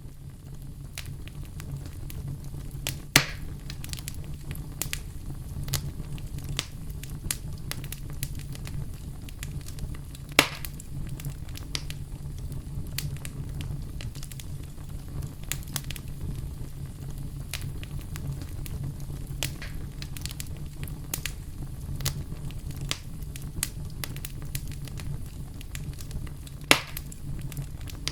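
Firewood burning, with a constant fine crackling over a steady low rumble, and three louder sharp pops from the wood spread across the stretch.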